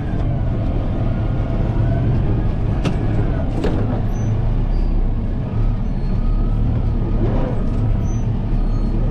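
Kubota M7060 tractor's diesel engine running steadily under load, driving a snowblower. Two short knocks come about three seconds in.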